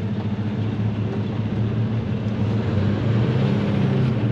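Day cab semi truck's diesel engine running at a steady drone while driving, heard from inside the cab, growing slightly louder in the second half.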